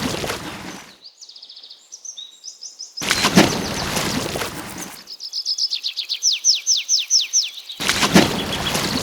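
Birds chirping in fast series of short descending whistles, broken about 3 s and 8 s in by a loud rush of noise, each lasting about two seconds and opening with a low thud.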